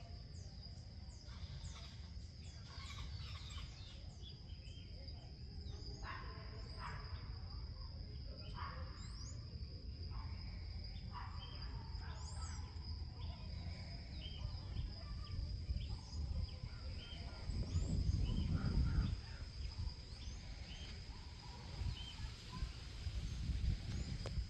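Outdoor natural ambience: birds chirping repeatedly over a steady high-pitched whine, with low wind noise on the microphone that gusts louder about three-quarters of the way through and again near the end.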